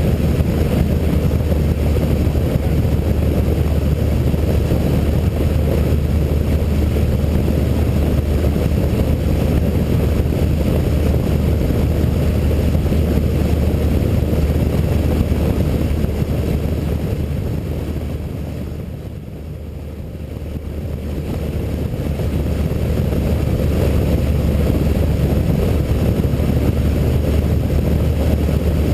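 Cessna 152's four-cylinder Lycoming engine and propeller running steadily, a loud, even low drone. About two-thirds of the way through it fades down for a few seconds, then comes back up to full level.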